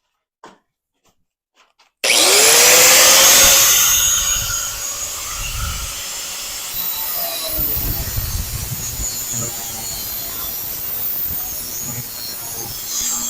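A few faint ticks, then about two seconds in a rotary power cutting tool starts abruptly. Its whine rises as it spins up, and it runs on cutting through car-body sheet metal, loudest at first and then steadier, with its pitch wavering under load.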